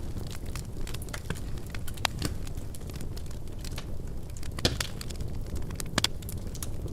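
Wood fire crackling in a fireplace: a steady low rush of burning with scattered sharp pops and snaps, the loudest about two, four and a half, and six seconds in.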